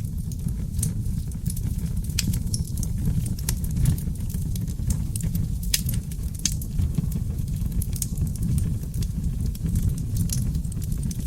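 Wood fire burning in a fireplace: a steady low roar of flames with frequent, irregular sharp crackles and pops from seasoned oak logs.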